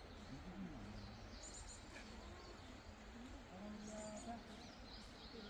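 Small birds chirping in short high bursts, with a faint murmur of people's voices underneath.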